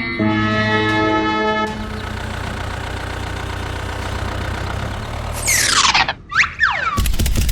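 Music with held notes ends about two seconds in, giving way to a steady engine-like rumble. Near the end come several quick falling whistle-like glides, then a rapid, loud clatter.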